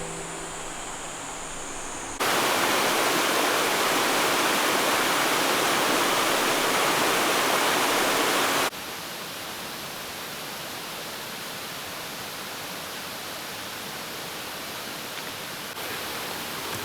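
Steady rush of flowing water from a mountain stream. From about two seconds in to about nine seconds the rush is much louder and fuller, starting and stopping abruptly, then drops back to a softer steady rush.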